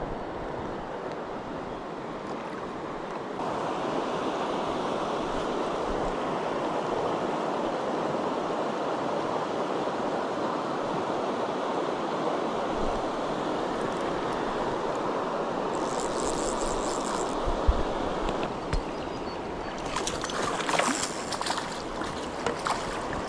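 Steady rush of a fast-flowing river running over stones around the angler's inflatable craft. Near the end, a trout splashes at the surface as it is brought into a landing net.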